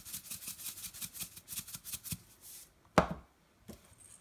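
Salt shaker shaken rapidly over a bowl of ground meat, the salt rattling about six or seven times a second for two and a half seconds before stopping. A single sharp knock follows about three seconds in.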